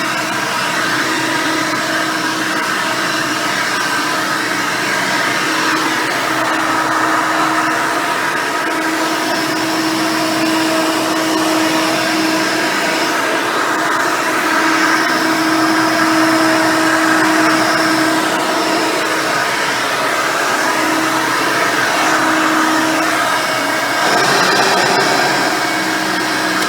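Custom Hoover Elite 600 upright vacuum, fitted with a single-row brush roll, running steadily while vacuuming, with a low hum that comes and goes.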